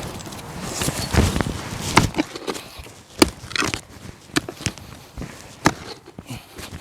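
Digging in hard, stony soil: a digging tool cuts and scrapes at the side of a hole, making irregular knocks and scrapes about once or twice a second.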